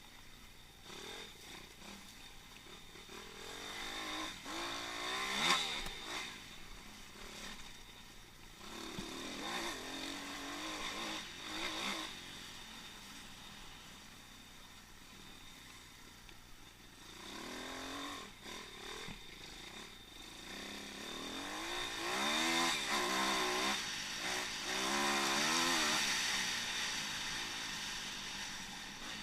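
Pit bike's single-cylinder engine heard from an onboard camera, revving up and falling back in repeated surges as the throttle is opened and closed, with a quieter easing-off stretch midway and a steady hiss of wind.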